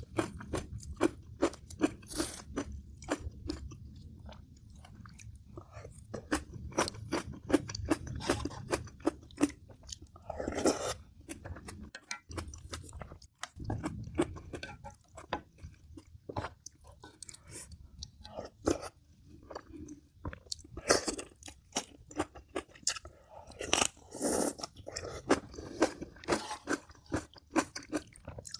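A person chewing a meal of spicy cabbage kimchi and scorched rice (nurungji), with frequent crisp crunches and bites picked up close to the mouth.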